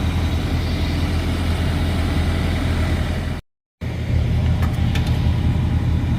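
Freightliner Cascadia semi truck's diesel engine idling steadily as a low, even rumble. The sound cuts out completely for a moment a little past halfway, then the idle carries on.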